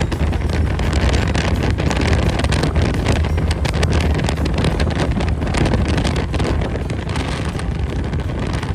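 Wind buffeting the microphone on a moving motorcycle, with the engine's steady rumble underneath.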